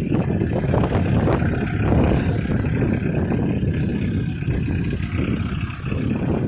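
Peugeot 205 GLD diesel engine idling steadily shortly after a cold start in sub-zero weather.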